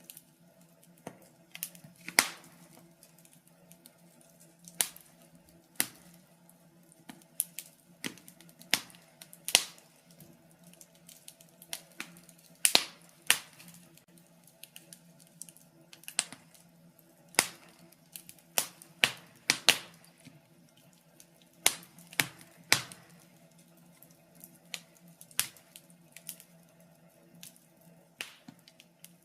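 Wood fire crackling: irregular sharp pops and snaps, a few every second or two, some much louder than others, over a faint steady low hum.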